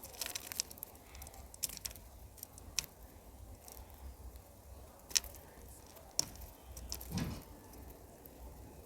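Cockatiel cracking sunflower seeds with its beak: scattered sharp clicks of husks splitting, a few seconds apart.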